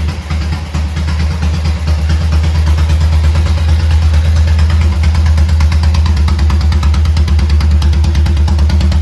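1951 Horex Regina motorcycle's single-cylinder four-stroke engine running at a steady idle with a fast, even beat, getting a little louder about two seconds in.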